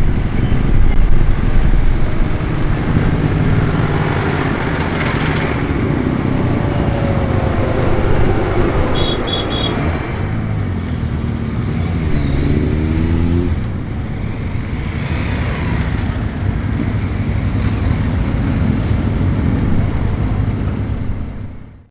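Tractor engines running, with one engine note rising in pitch partway through before dropping away; the sound cuts off suddenly at the end.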